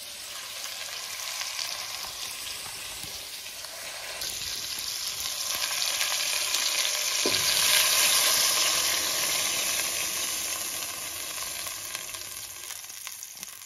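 Food frying in a hot pan, a continuous sizzle that grows louder toward the middle and then eases off.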